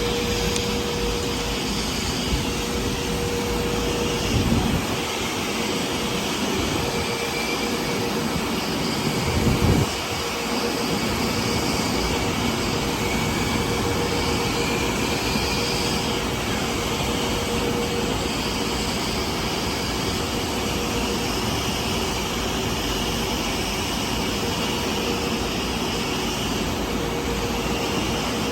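Car wash machinery and vacuum motors running with a steady drone and hiss under a constant whine, with two brief louder surges about four and nine seconds in.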